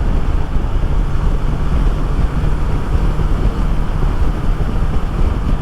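Wind rushing over a helmet-mounted microphone at road speed, over the steady low drone of a Honda CB650R's inline-four engine.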